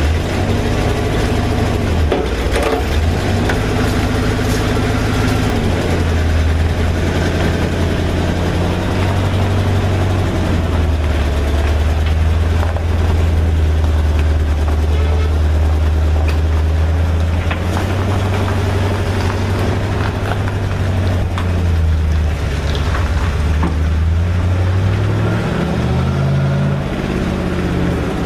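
Vintage tow truck's engine running steadily under load as it drives with a pickup in tow on its sling, the engine note shifting a few times, with scattered knocks and rattles.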